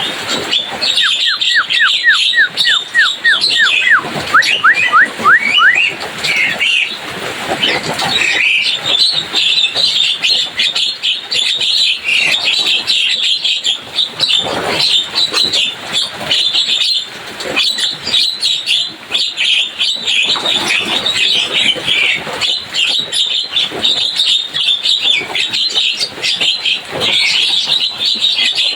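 Javan myna (jalak kebo) chattering busily in a dense stream of rapid chirps, with a quick run of rising whistles in the first few seconds.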